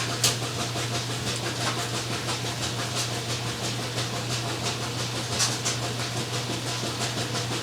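Steady low hum with a noisy hiss, broken by a few faint soft rustles or clicks.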